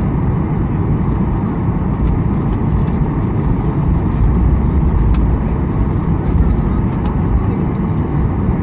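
Steady cabin noise inside a Boeing 737-800: a low rumble of its CFM56-7B engines and rushing air, with a few faint clicks over it.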